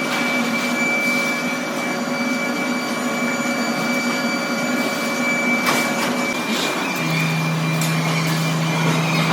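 Heavy workshop machinery running with a steady hum of several constant tones. The hum changes about seven seconds in, as a new lower tone takes over, and there are a few short knocks.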